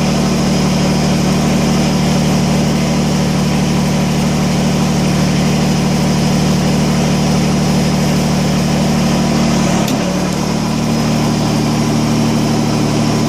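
Kubota BX25D compact tractor's three-cylinder diesel engine running steadily while the backhoe's hydraulics raise the outriggers. Its note changes briefly about ten seconds in.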